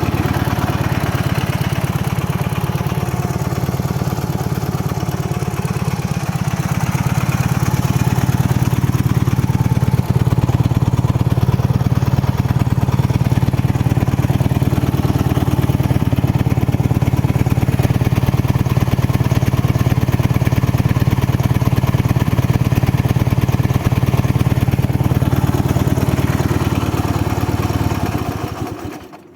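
Ural motorcycle's flat-twin engine idling steadily. It gets a little louder a few seconds in, then stops near the end.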